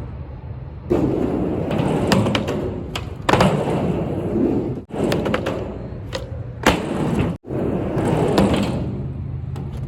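Skateboard wheels rolling and rumbling on a mini ramp, with several sharp board clacks and impacts, the first about a second in. The sound breaks off abruptly twice, as if short clips were spliced together.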